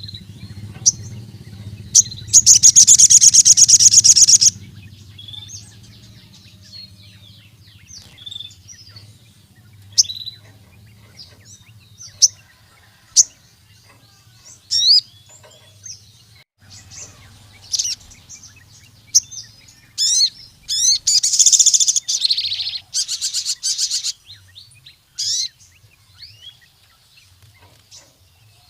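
A sogon (crimson sunbird) singing. It gives scattered short, sharp high chirps and, twice, a loud rapid trill lasting about two seconds: once about two seconds in and again about twenty seconds in.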